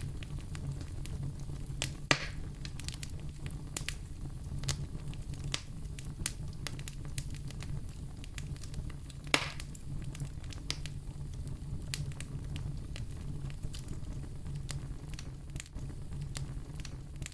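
Wood fire in a fireplace crackling, with many small snaps, two louder pops about two seconds and nine seconds in, and a steady low rumble underneath.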